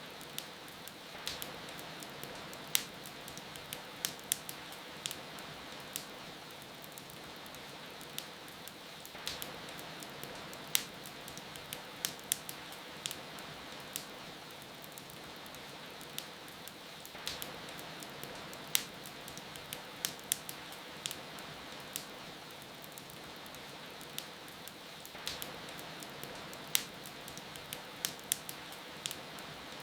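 Wood fire crackling, with frequent sharp irregular pops and snaps, over a steady hiss of rain.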